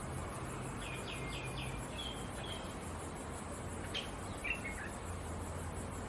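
Outdoor ambience of steady hiss and a faint high trill, over which small birds chirp: a quick run of four notes, then two longer notes, and a short twittering phrase near the end. A single sharp tap about four seconds in.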